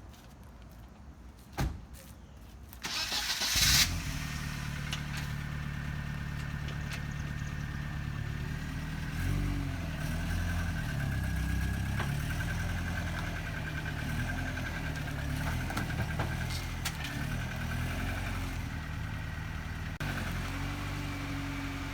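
Isuzu Amigo engine cranking and catching about three seconds in, then running steadily with its speed wavering slightly.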